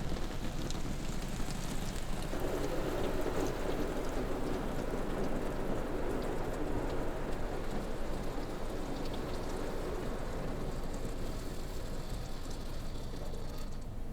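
Water from a car wash's spray nozzles drumming on the car's body in a steady hiss. It gets heavier for several seconds, from about two seconds in.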